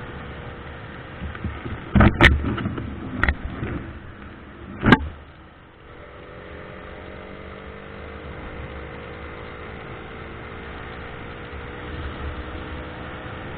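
Car running steadily on the road, a constant drone. A few sharp knocks and thumps come between about two and five seconds in.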